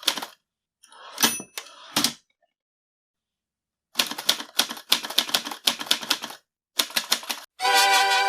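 Typewriter keys clacking in quick runs with silent pauses between, and a short ringing tone among the clicks about a second in. Music with sustained notes starts near the end.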